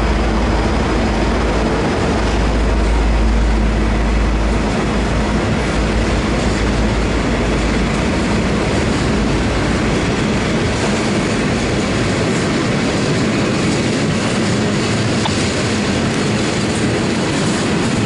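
V/Line N-set passenger carriages rolling past on departure, with a steady loud rumble and clatter of wheels on the rails. The deep low rumble eases after about five seconds.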